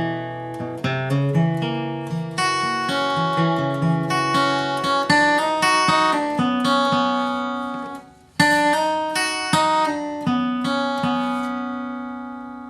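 Acoustic guitar picking the melody of a bluegrass tune, a quick run of single notes that stops abruptly about eight seconds in, then picks up again and ends on a chord left ringing to fade out.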